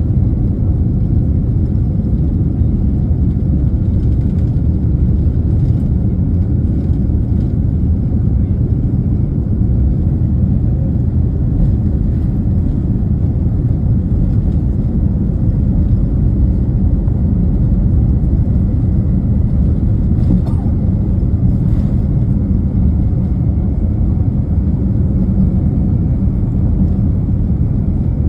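Jet airliner during takeoff: a loud, steady low rumble of engines and airflow.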